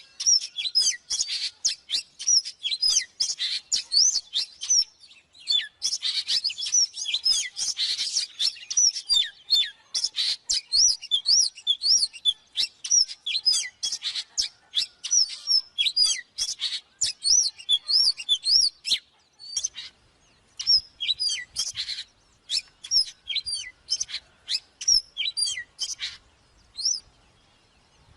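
Oriental magpie-robin singing: a fast, dense stream of loud whistled notes and sweeping chirps. In the last third the phrases grow sparser, with short pauses between them.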